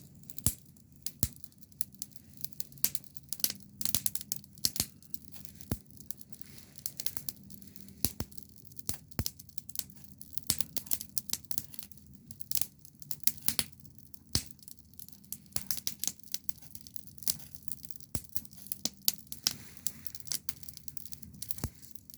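Wood fire crackling: irregular sharp snaps and pops, several a second, over a steady low background.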